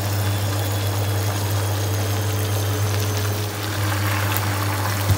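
Chicken pieces sizzling and spitting in their juices in a frying pan, with a steady low hum underneath.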